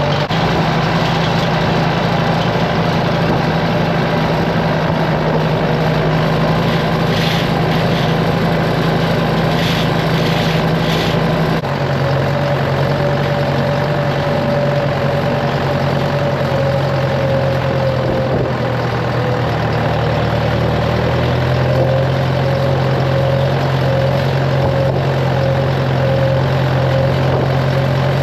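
A motor vehicle's engine running steadily with a low drone. Its pitch drops a step about a third of the way in and shifts again about two-thirds in.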